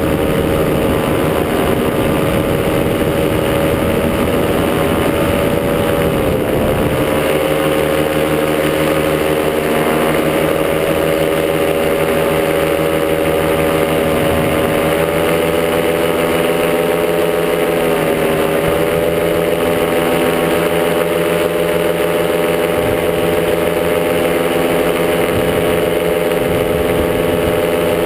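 Top80 single-cylinder two-stroke paramotor engine running steadily in flight, with a brief dip in pitch about six seconds in and another about eighteen seconds in.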